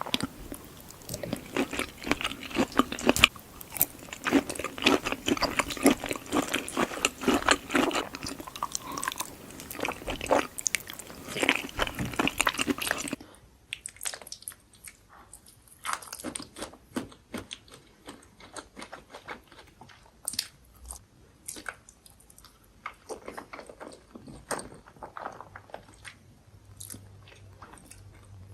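Close-miked eating: a person chewing and biting food with loud mouth sounds. About halfway through, the sound cuts to quieter, sparser chewing.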